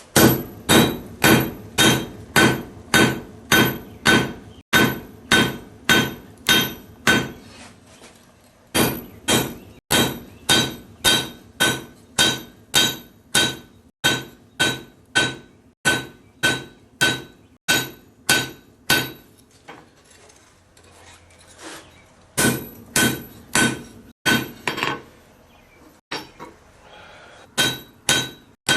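Blacksmith's hammer forging a hot titanium knife blank on an anvil: a steady run of blows, about two to three a second, each with a clear metallic anvil ring. The hammering stops briefly a few times before starting again.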